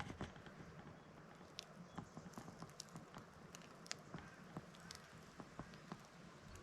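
Faint, irregular small clicks and taps from the small items of a geocache's contents being handled.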